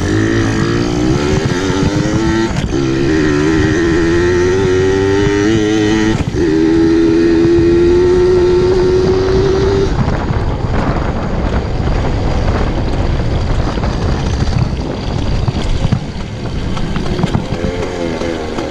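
Pit bike engine revving hard under acceleration, its pitch climbing, with short breaks about three seconds and six seconds in like gear changes. After about ten seconds the steady engine note gives way to a rougher, noisier running sound.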